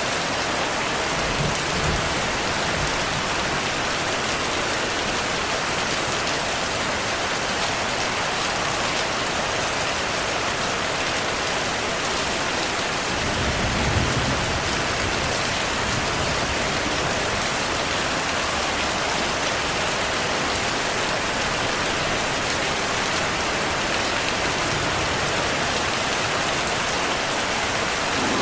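Steady, heavy rainfall hissing on surfaces, with two low rumbles of distant thunder: a faint one about two seconds in and a stronger one near the middle.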